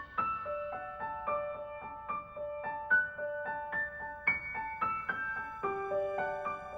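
Gentle background piano music: a slow melody of single struck notes over soft chords.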